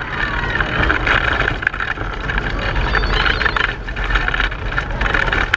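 A racing pedal car rolling along at race pace, heard from on board: steady road and wind rumble with a constant light rattle of the car.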